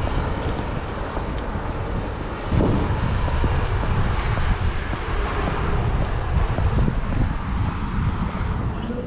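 Steady, loud low rumble of vehicle noise with no clear pitch.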